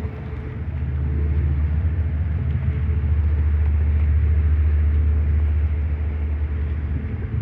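Standby generator running with a steady low hum, growing louder over about the first second.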